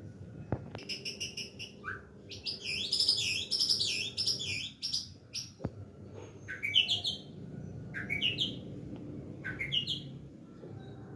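A songbird singing: a run of quick repeated chirps, then a dense, varied warble, then three short phrases that sweep upward in pitch, about a second and a half apart.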